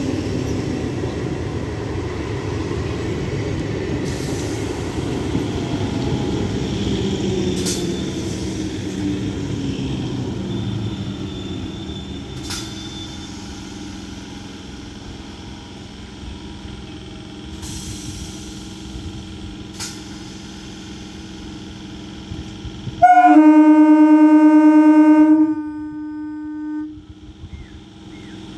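An EMU local train running past on the rails, its rumble fading away over the first dozen seconds. Near the end, a loud horn of several steady tones sounds for about two and a half seconds.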